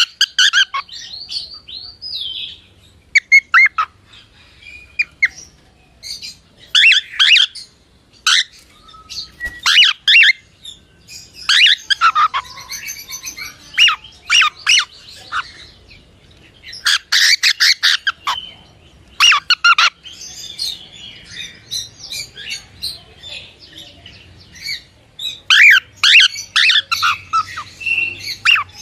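Cockatiel chirping and squawking in loud bursts of rapid, sliding calls every few seconds, with softer chatter in between.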